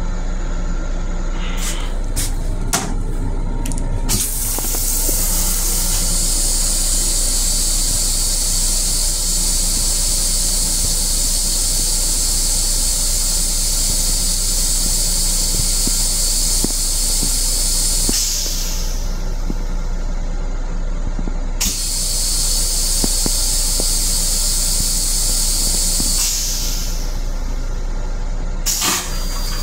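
A sink fixture in an M7 railcar restroom gives a steady hiss of spray or air in two spells, the first about fourteen seconds long and the second about five seconds, over the railcar's constant low hum. Clicks and knocks come in the first few seconds and again near the end.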